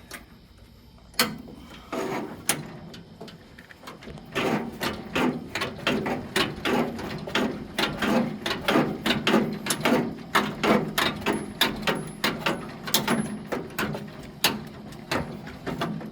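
Hand tool driving a screw: a few separate clicks, then from about four seconds in a quick, steady run of sharp clicks and knocks, about three to four a second, until near the end.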